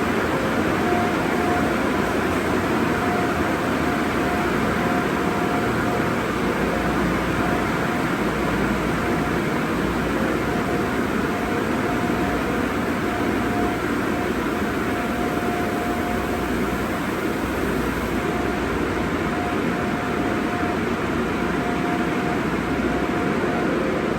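Car wash tunnel dryer blowers running with a steady, even roar.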